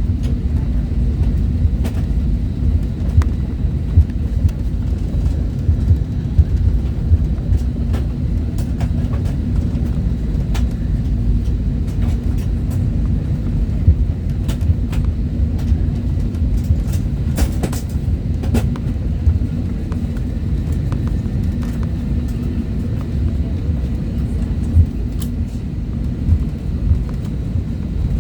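Steady low rumble inside the cabin of an Airbus A320neo in motion, with scattered light knocks and rattles from the cabin fittings.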